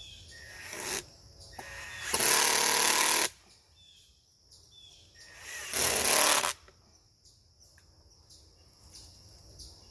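Insects chirring in an even high pulse, broken twice by a loud rush of noise about a second long.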